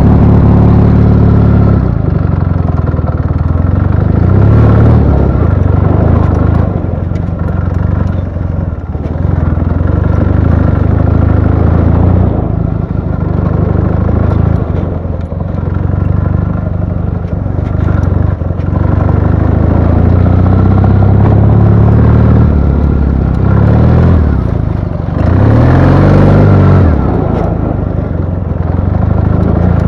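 Ural motorcycle's air-cooled flat-twin engine running under way, with the revs rising and falling several times near the end.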